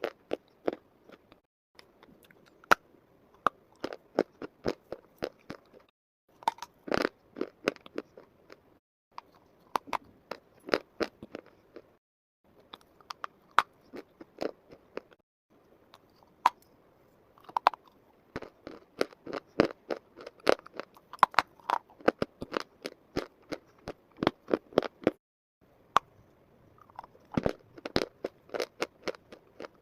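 Close-up crunching of crisp food being bitten and chewed, in several bursts of rapid sharp cracks separated by short pauses.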